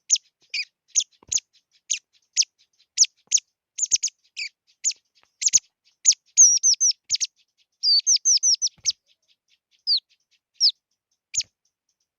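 A small songbird, the Vietnamese 'chim chi chi', chirping: short, sharp, high notes, each a quick downward sweep, some given singly and some in fast runs of four or five, with brief silent gaps between.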